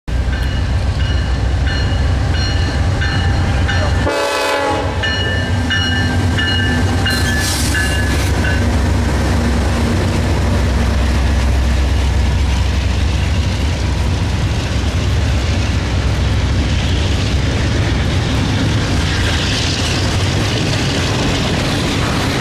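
Norfolk Southern double-stack intermodal train passing close by with a heavy, steady low rumble and wheel clatter. A horn sounds over it for the first several seconds and stops about eight seconds in, leaving the rumble of the container well cars rolling past.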